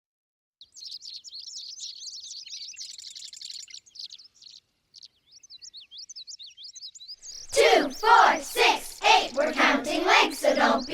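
Small songbirds twittering, a quick run of high chirps. About seven and a half seconds in it gives way to a louder run of lower, voice-like calls that bend in pitch.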